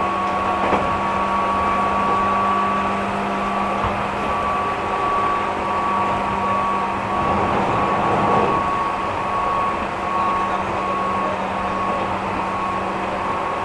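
JR East 205 series electric train heard from inside a passenger car, running between stations: a steady rumble of wheels on rail with a steady hum over it, swelling slightly about eight seconds in.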